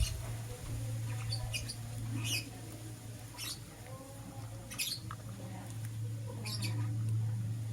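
Lovebirds giving short, high, squeaky chirps, about six of them spaced a second or so apart, over a steady low hum.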